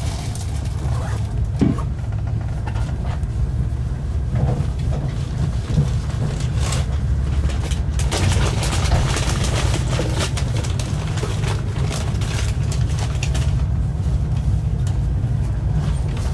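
Cabin noise of a moving Swiss high-speed passenger train: a steady low rumble from the running gear. For a few seconds near the middle a rushing hiss swells louder, and there are a couple of faint knocks.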